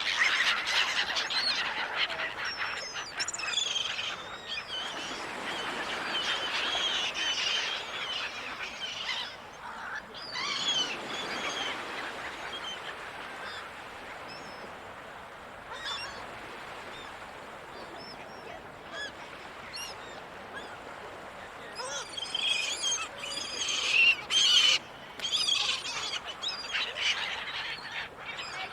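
Gulls calling over the sea: overlapping squawks and cries, busiest at the start and again in a loud flurry near the end, over a steady background wash.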